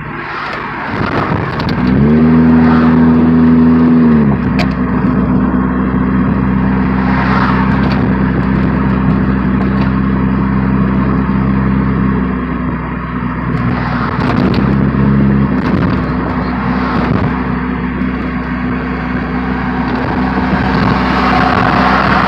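Straight-piped Chevy Cavalier engine with no muffler. About two seconds in, its pitch rises briefly, holds and falls; after that it drones evenly at steady revs.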